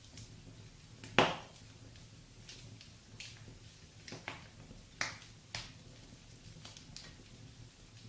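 Wood fire burning in a fireplace: a low steady rumble with irregular crackles and sharp pops. The loudest pop comes about a second in, and two more come close together around five seconds.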